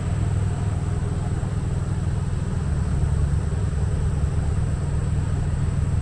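Truck engine idling steadily, a low even rumble, with a thin steady high whine over it.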